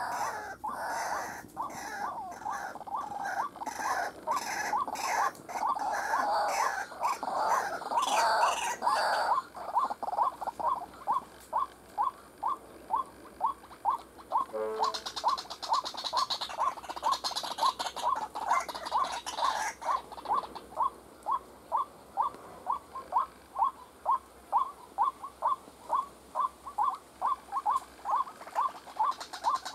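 White-breasted waterhen calling: a long string of short, repeated notes, a little over two a second, denser and overlapping for the first several seconds. A burst of hiss comes in around the middle.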